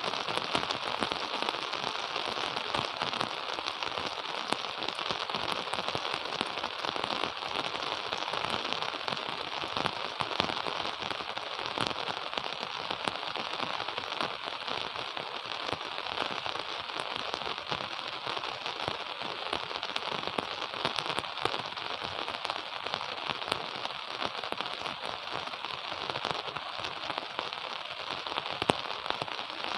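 Steady rain falling, a dense patter of drops with many small sharp ticks throughout.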